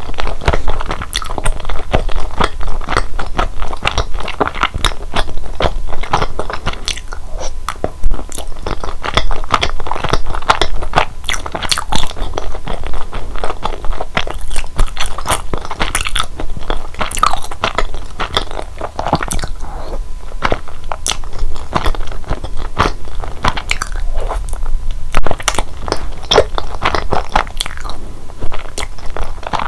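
Close-miked chewing and biting of mitarashi dango, chewy rice-flour dumplings in a sticky soy-sugar glaze: a steady run of sharp mouth clicks and smacks.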